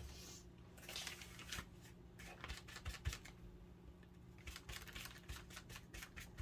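Faint rustling of paper with scattered light taps and clicks as craft supplies are handled, in two short spells.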